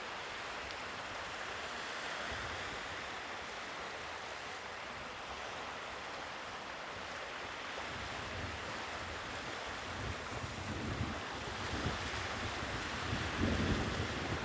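Sea waves washing ashore in a steady surf. From about halfway, gusts of wind buffet the microphone, growing stronger near the end.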